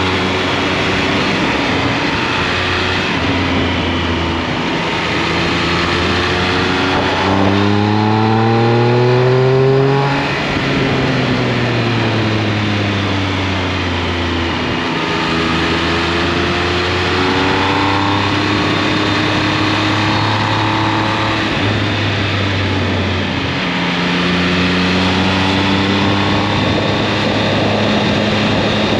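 Triumph Speed Triple 1200 RS's inline three-cylinder engine under way, heard from on the bike with wind rushing past. Its pitch climbs as the bike accelerates about seven to ten seconds in, falls away as the throttle closes, holds steady, then rises again near the end.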